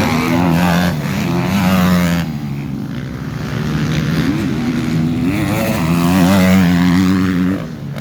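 Motocross motorcycle engines revving up and down in two loud spells, one over the first two seconds and another from about four and a half seconds in, which falls away near the end.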